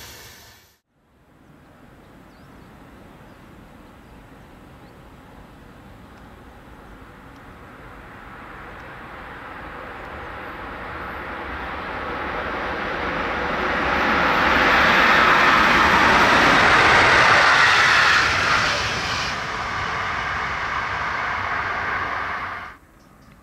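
Train approaching at speed, its rushing noise swelling steadily over about fifteen seconds to a loud peak, easing a little, then cut off abruptly near the end.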